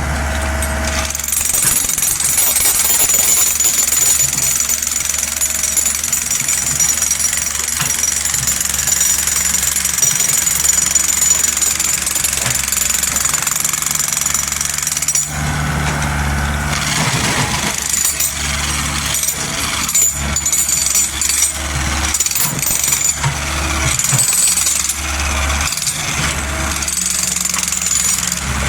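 Mini excavator working: its diesel engine runs steadily with a low drone and fast rattling clatter. A high steady whine sounds over it and stops about halfway through.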